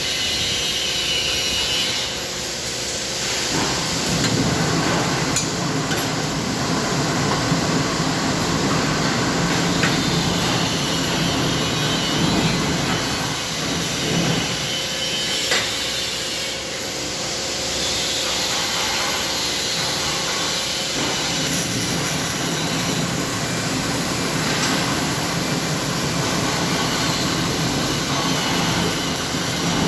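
Muffler welding and metalworking on a production line: a loud, steady hiss and crackle with a few sharp knocks of metal.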